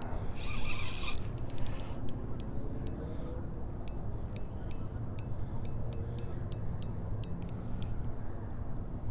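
Fishing reel drag clicking as a hooked fish pulls out line: a fast run of clicks in the first second, then single clicks two or three a second, stopping near the end.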